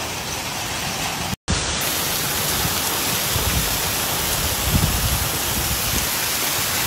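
Heavy rain with hail pelting down in a steady, even hiss, with a few soft low thumps; the sound cuts out for an instant about a second and a half in.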